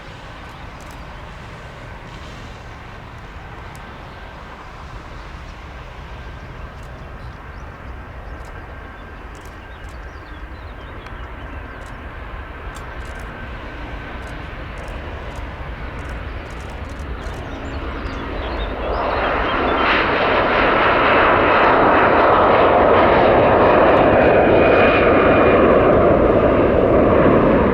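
Jet airliner engines growing steadily louder as the aircraft nears, becoming much louder about two-thirds of the way through and staying at full strength, with a thin whine on top of the rush.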